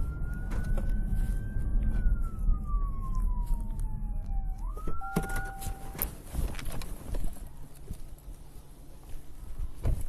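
Police car siren wailing in one slow rise and fall, then rising again and cutting off about five seconds in, over a low rumble. Scattered sharp knocks and clicks follow in the second half.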